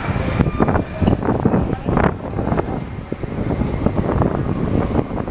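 Wind buffeting the microphone, a loud low rumble that rises and falls, with people talking in the background.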